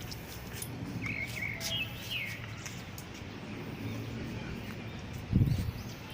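Birds chirping in short calls, over a steady low background, with one brief low thump about five seconds in.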